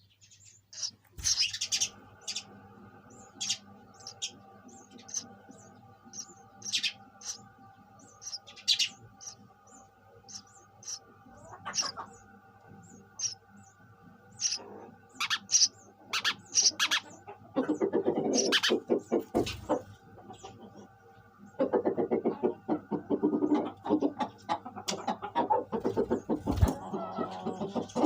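Sparrows chirping in short, sharp, separate notes. About two-thirds of the way through, a louder, lower, rapid chattering joins in and runs in two stretches.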